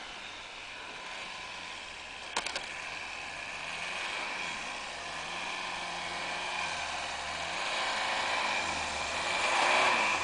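2008 Subaru Forester 2.0's flat-four engine revving up and down as the car pushes through deep snow without chains, under a steady rushing noise; it grows louder as the car comes closer, loudest near the end. A few sharp clicks about two and a half seconds in.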